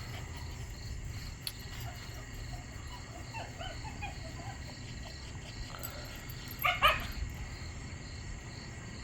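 Havanese puppies giving faint little whimpers and yips, with one short, louder yip late on.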